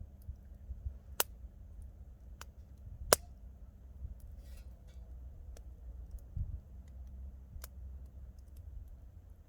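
Wood campfire crackling, with a few sharp pops from the burning wood, the loudest about three seconds in, over a low steady rumble.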